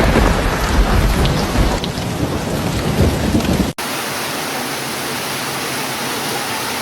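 Heavy rain falling with rolling thunder rumbling underneath. A little past halfway the sound cuts off abruptly and gives way to a steadier, even rushing of rain or water without thunder.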